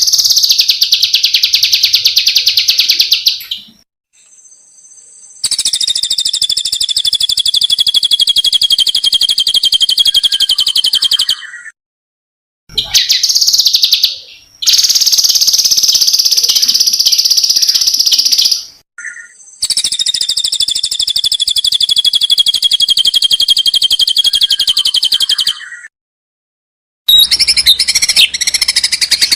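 Small songbird singing long rapid trills ("rolls"), several in a row, each lasting several seconds with short pauses between them, followed by a more varied, choppy phrase near the end.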